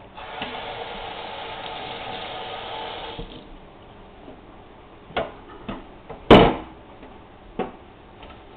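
Kitchen sink tap running for about three seconds, then shut off; a few sharp knocks follow, the loudest about six seconds in.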